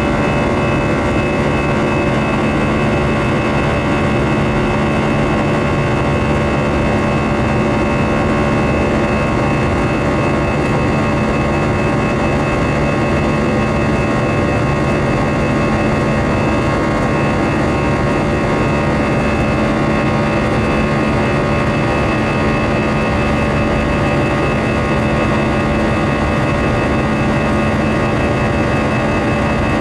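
Cabin noise of an Airbus A319-115 airliner climbing after takeoff: the jet engines and rushing air heard from inside the cabin as a steady, unchanging rush with several held humming tones.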